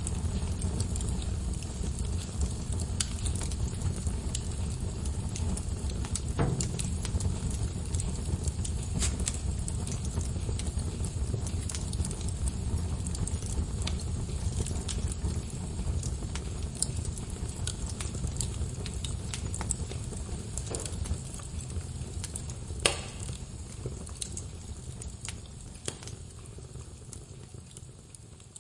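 Log fire in a fireplace crackling: a steady low rumble of flames with scattered sharp pops and snaps, the loudest about two-thirds of the way through. The sound gradually fades down near the end.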